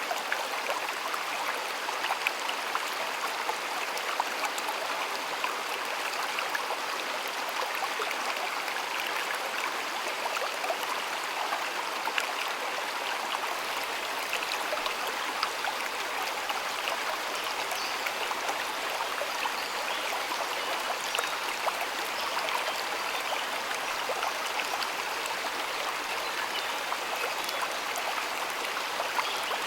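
Water in a stream flowing steadily, with a continuous rush broken by many small splashes and trickles.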